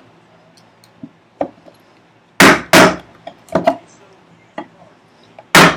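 Mallet blows on a chisel, chopping out a housing dado in a wooden vise chop: two loud strikes about two and a half seconds in, two softer ones a second later, and another loud strike near the end, with a few light taps before them.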